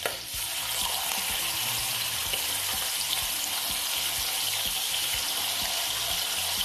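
Chicken thighs sizzling in hot butter and oil in an enamelled cast-iron Dutch oven, a steady hiss from the moment they go into the fat.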